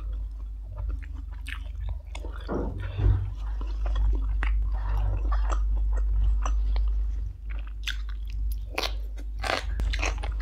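A person chewing and biting food close to a clip-on microphone: a mouthful of stir-fried instant noodles and papaya salad, with irregular crunches and mouth clicks.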